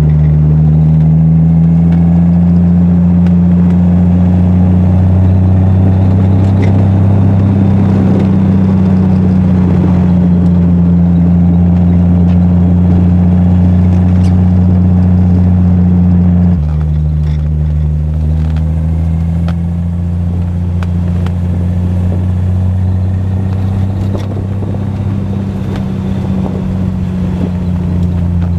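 Triumph TR6 straight-six running under way at moderate revs, a steady low drone through a Monza exhaust with resonators. The note rises gently, drops abruptly a little past halfway, then climbs again.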